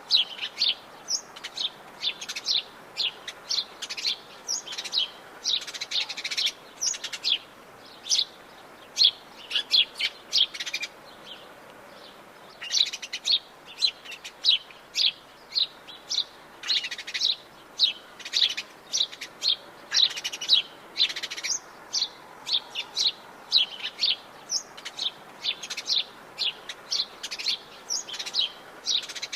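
Atlantic Forest birds chirping and calling, rapid short high-pitched chirps from several birds overlapping almost continuously, with a brief pause near the middle.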